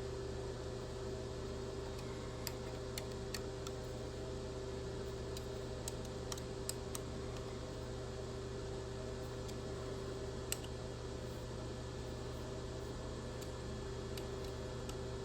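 Steady machine-shop hum with a scattering of light metal clicks and taps, the sharpest about ten seconds in: toe clamps being fitted and tightened on a milling machine's rotary table.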